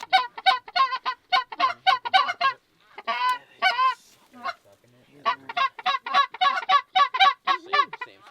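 Geese honking in a rapid, loud series, about three honks a second, with a short lull a little past the middle.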